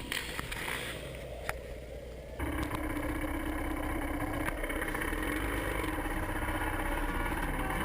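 Motocross bike engine idling steadily, coming in abruptly about two seconds in, after a few sharp clicks.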